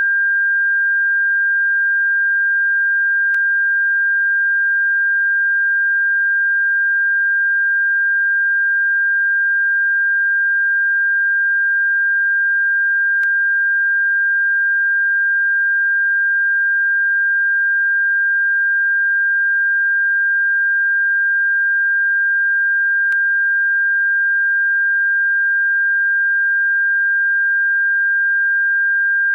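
Continuous electronic sine tone at one steady high pitch, played as a bird-repellent sound. A faint click comes about every ten seconds.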